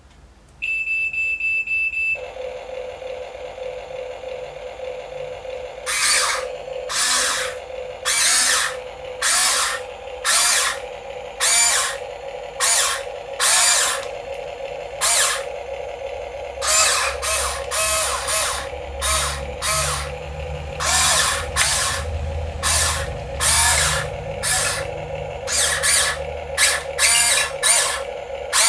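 Small geared electric motor of a radio-controlled toy vehicle running with a steady whine, with short hissing bursts about once a second over it. A brief high beep comes just before the motor starts.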